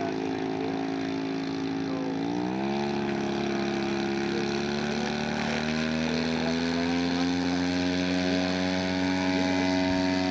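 Radio-controlled model airplane engine and propeller running steadily, revving up in pitch about two seconds in and then climbing slowly higher.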